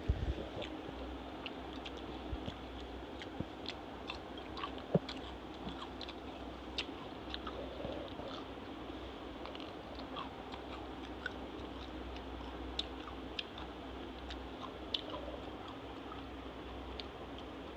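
Close-up chewing and biting of dhuska, a deep-fried rice-and-lentil pancake, eaten by hand with potato curry: irregular short mouth clicks over a steady low hum.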